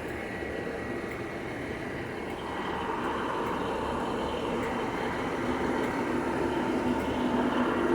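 Five-coach IET train approaching, its running sound growing louder from about two and a half seconds in, with a steady low hum under it.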